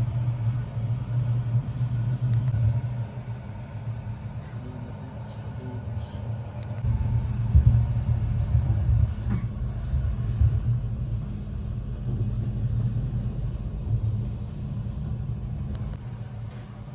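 Passenger train running at speed, heard from inside the carriage: a steady low rumble of wheels on rails, growing louder about seven seconds in.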